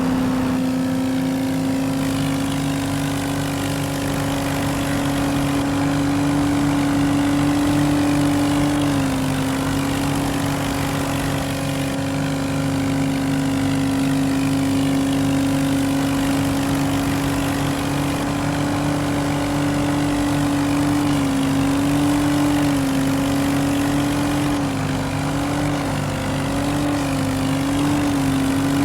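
A vehicle engine running hard at a steady, held speed, as in a car-versus-tractor tug of war; its pitch dips briefly about nine seconds in and wavers up and down near the end as the load shifts.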